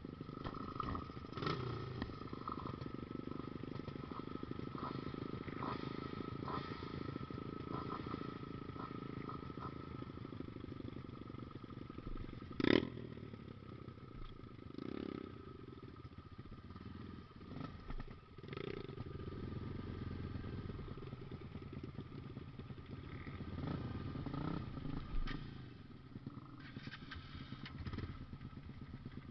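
A small engine runs steadily, with scattered knocks and clatters over it; the loudest is a sharp knock about halfway through.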